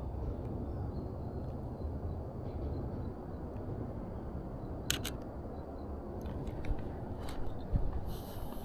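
Canon EOS RP camera shutter firing once about five seconds in, a quick double click, with a few fainter clicks after it over a steady low rumble.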